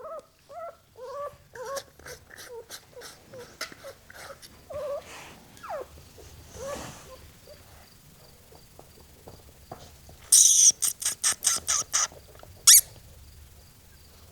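Newborn poodle puppy whimpering and squeaking in a quick string of short rising-and-falling cries during the first six seconds or so. About ten seconds in comes a burst of sharp rustling clicks, the loudest sound here.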